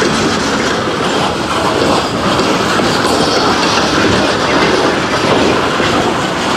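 Loaded coal train rolling past on the rails: a steady, loud clatter and rumble of hopper-car wheels on the track.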